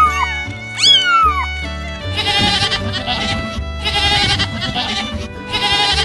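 A goat bleating in long, wavering calls, three in a row starting about two seconds in, over background music. Before the bleats come two short high animal calls that fall in pitch.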